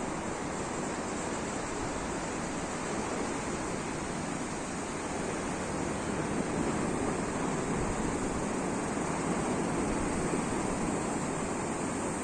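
Sea waves washing in a steady, continuous surf that swells slightly a little past the middle.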